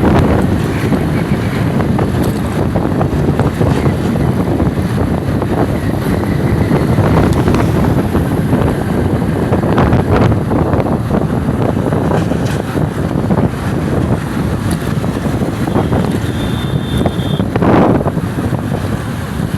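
Loud, steady rumbling wind noise buffeting the microphone, with a brief thin high tone about three-quarters of the way through.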